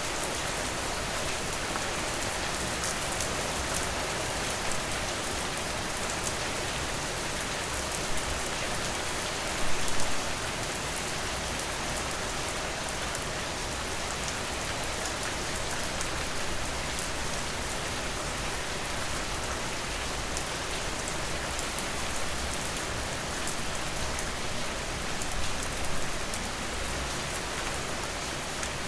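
Steady rain falling, an even hiss of many drops, with a few brief louder bursts about ten seconds in and again near the end.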